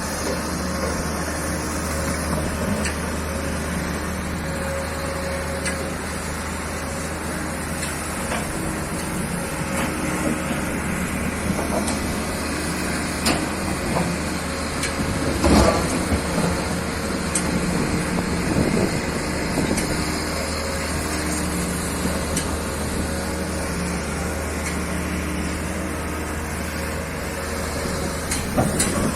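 Hitachi ZX excavator's diesel engine running steadily at work, with scattered metallic clicks and clanks and one louder thump about halfway through.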